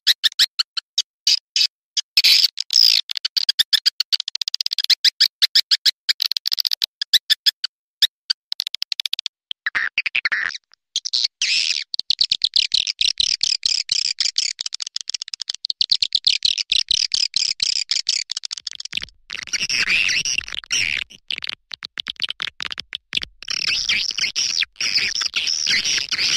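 Swiftlet calling track of the kind played to lure swiftlets into a nesting house: rapid, high-pitched chittering twitters repeated in a close-packed stream, growing denser and fuller about two-thirds of the way through.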